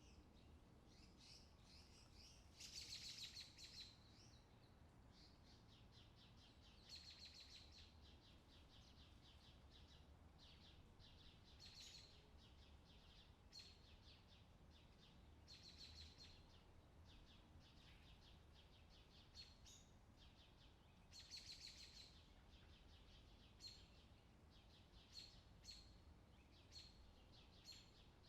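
Faint songbird chorus: short chirping phrases repeat every few seconds, over a low steady background rumble.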